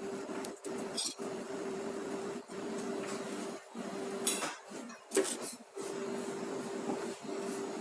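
Metal utensils clinking and scraping against pots or dishes, with a few sharp clinks, over a steady hum.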